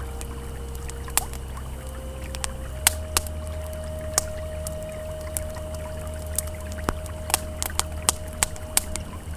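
Campfire crackling with scattered sharp pops over the low steady rush of a flowing river. A soft sustained ambient tone runs beneath, shifting to a slightly higher pitch about three seconds in.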